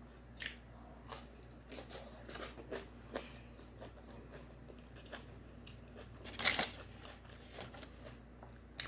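A person chewing and crunching food close to the microphone, with scattered wet clicks and crackles. A louder crunch comes about six and a half seconds in.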